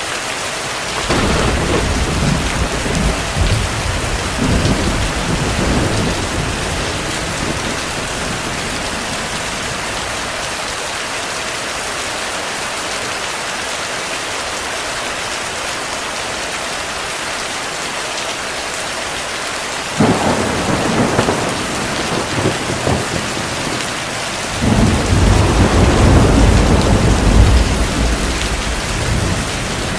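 Steady heavy rain with rolling thunder. A rumble begins about a second in and fades over several seconds. Two-thirds of the way through a sharp crack breaks out, and near the end it rolls into a louder, longer rumble.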